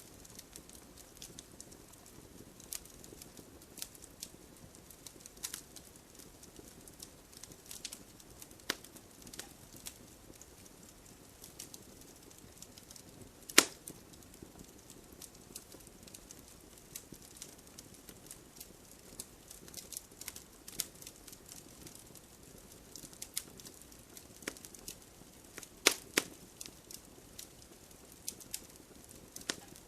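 Wood fire crackling: irregular sharp pops and snaps from burning logs over a soft, low rush of flame. The loudest pop comes about halfway through, and two more come close together near the end.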